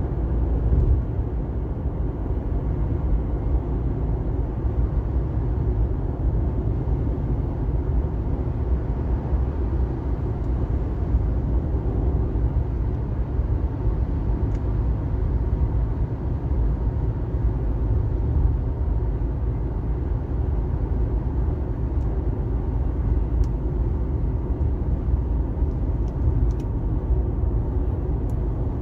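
Steady low road rumble of a car driving at highway speed on wet pavement.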